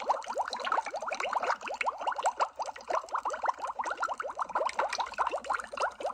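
Continuous underwater bubbling: a dense stream of small bubbles, each one a short rising blip, overlapping without a break.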